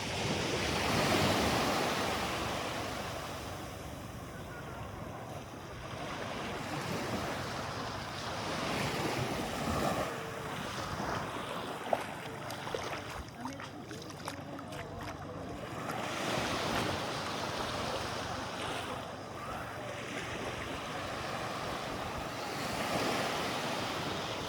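Sea waves washing in shallow water, swelling and easing every several seconds, with wind buffeting the microphone. There are a few sharp clicks about halfway through.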